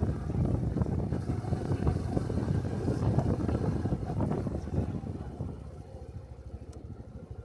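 Small Honda Cub 125 cc single-cylinder motorcycle engine running on the road, with wind rushing over the microphone; it gets quieter about five seconds in.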